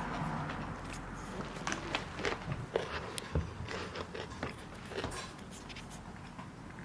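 Scattered soft clicks and light knocks, irregular, a few a second, with a couple of slightly louder taps in the first half.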